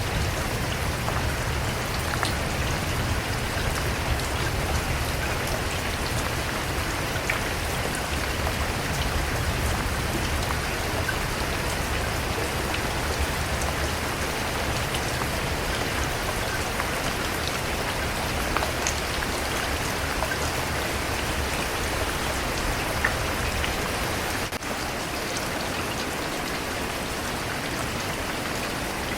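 Steady rain falling, with scattered drops ticking on a surface. A low rumble underneath drops away about five seconds before the end.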